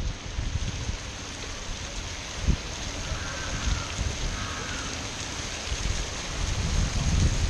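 A water fountain splashing steadily, with wind buffeting the microphone in gusts.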